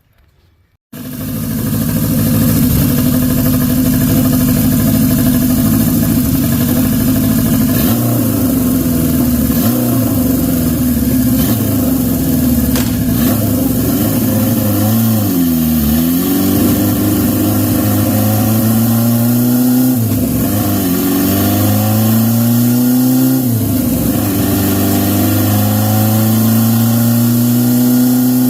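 Turbocharged Honda CB750's air-cooled SOHC inline-four running hard under load on a roller dyno, starting about a second in. The engine speed holds steady, then drops sharply and climbs back three times in the second half. The rider blames a slipping clutch he thinks is roasted.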